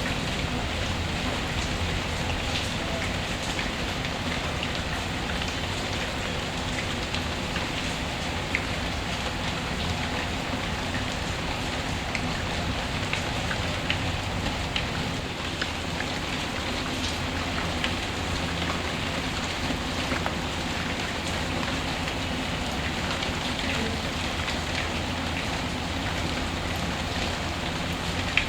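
Recorded rain ambience mixed with a fireplace: a steady hiss of rain with scattered small clicks and a few sharper pops.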